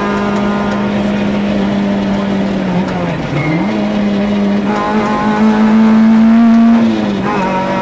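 Engine of a Group A Peugeot 106 rally car, heard from inside the cabin, running hard at high revs on a stage. The pitch dips briefly and comes back about three seconds in, rises slightly higher and louder later on, then falls away near the end.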